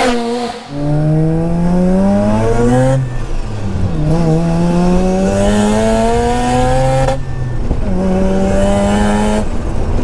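Mazda RX-7 FD3S's single-turbo twin-rotor rotary engine, heard from inside the cabin, revving up hard through the gears. Its pitch climbs, drops at an upshift about three seconds in, climbs again and drops at another shift about seven seconds in, then holds steady briefly before easing off near the end.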